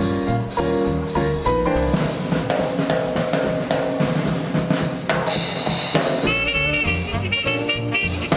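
Small-group swing band playing live: drum kit to the fore with snare and bass drum, over bass and piano, with sax and trumpet playing the tune about six seconds in.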